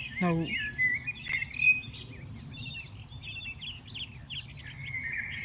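Several birds of different species chirping and calling together, a busy mix of short chirps and quick rising and falling whistles. A short lower sound falls in pitch just after the start.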